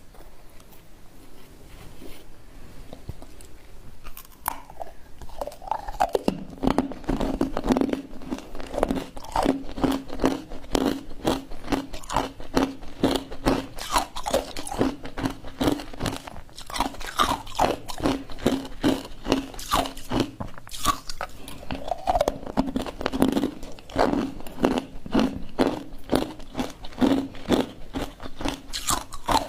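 Ice with matcha being bitten and chewed up close, a dense run of irregular crunches that starts quieter and picks up about four to six seconds in.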